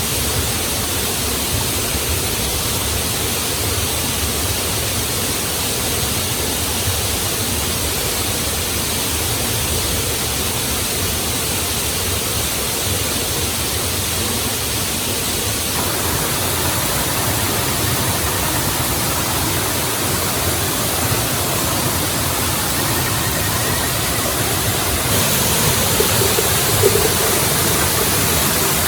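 Waterfall rushing as a steady, even roar of falling water. A few faint ticks come near the end.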